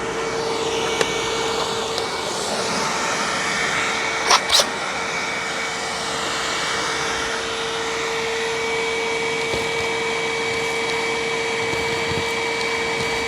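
Hoover WindTunnel upright vacuum running steadily with a constant whine, sucking up a pile of loose debris through its hose rather than the brush roll. A couple of sharp clicks come about four seconds in.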